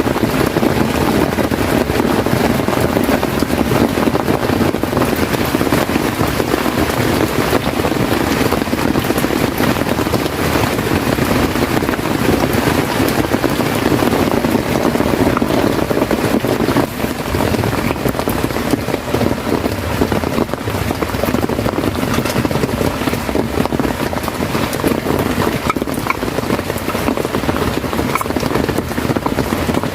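Heavy rain falling, a loud steady rush with no let-up.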